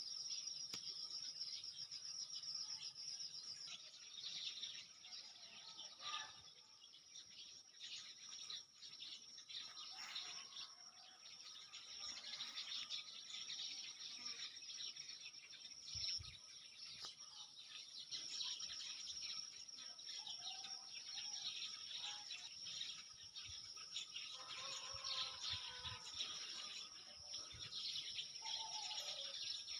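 Several birds chirping and calling, with a steady high insect drone beneath them; some lower calls come in during the last third.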